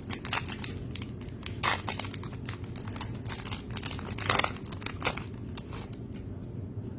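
Trading card pack wrappers crinkling and tearing as packs are handled and opened, in quick irregular crackles that are loudest about a second and a half in and again past four seconds, then stop near the end over a steady low hum.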